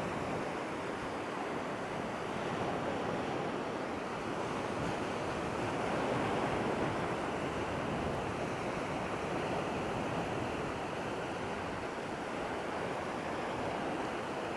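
Steady wash of surf on the shore, swelling gently and easing off, with some wind on the microphone.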